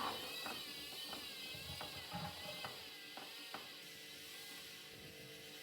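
Hoover One Touch washing machine turning its drum with a badly unbalanced load: a high motor whine that wavers up and down, with about seven irregular clicks in the first three and a half seconds.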